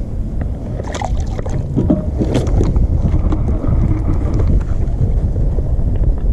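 Wind buffeting the microphone, a steady low rumble, with a few knocks and clicks about one to two and a half seconds in.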